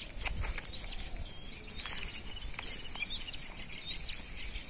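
Small birds chirping in many short, quick calls, over a low steady rumble of outdoor background noise.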